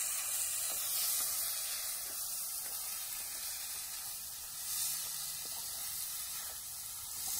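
Onions and tomatoes sizzling in oil in a clay pot, a steady hiss, with a few faint knocks of the wooden spoon as they are stirred.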